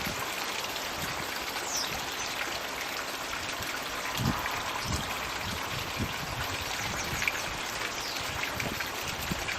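Floating Magic Bucket pond water feature running: a steady trickle and splash of water pouring into the pond.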